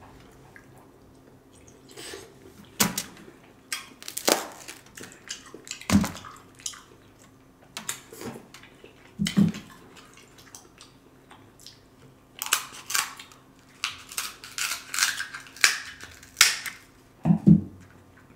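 Close-miked eating sounds: wet chewing and smacking on king crab meat dipped in Alfredo sauce, with irregular clicks and crackles of crab leg shell being snipped and pulled apart, busiest in the second half.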